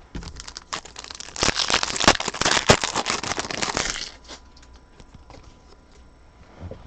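Crinkling of a foil or plastic trading card pack wrapper being handled and torn open, a dense crackle that stops about four seconds in.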